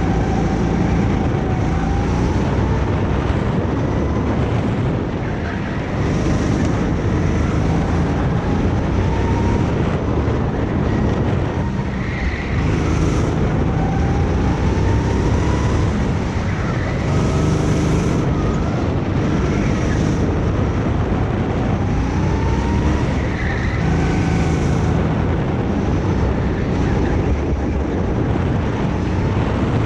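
Go-kart engine running at speed, its pitch rising over a second or two and then dropping, again and again, with heavy wind buffeting on the microphone.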